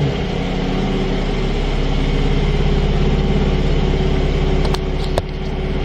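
Car engine idling steadily while warming up after a start. A few sharp clicks sound near the end.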